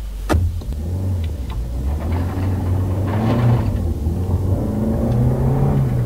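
Car engine running and revving, with a sharp click about a third of a second in and a few lighter ticks.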